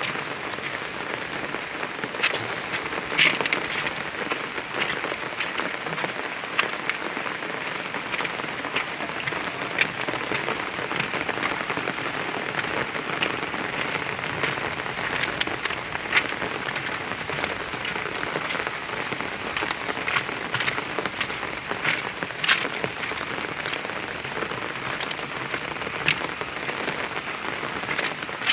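Heavy monsoon rain pouring down in a steady hiss, with scattered sharp individual drop hits close by.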